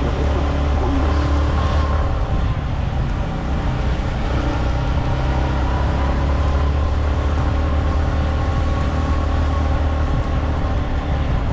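Motorcycle engine running at a steady pace while riding, a constant low hum with no revving.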